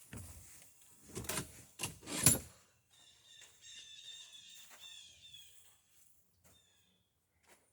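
Several knocks and bumps, the loudest about two seconds in, followed by a couple of seconds of short, high chirping notes.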